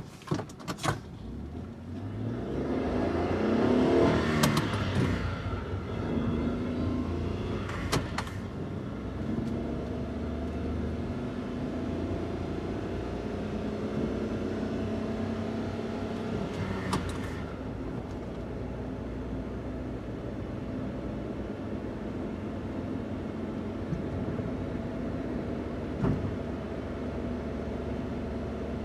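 Daihatsu Hijet kei van's stock 660 cc three-cylinder engine: after a couple of sharp clicks, the engine sound rises to a peak of revs about four seconds in, then settles into a steady run. A few single clicks break in later.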